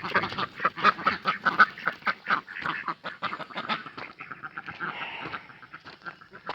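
Several domestic ducks quacking in quick, overlapping calls as they are shooed away, thinning out over the last few seconds.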